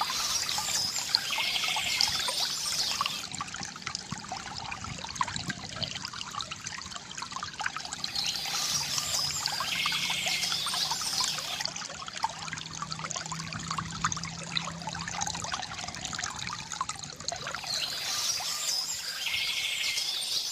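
Water trickling and pouring steadily from a bamboo fountain spout. Birds chirp over it in three louder spells about nine seconds apart.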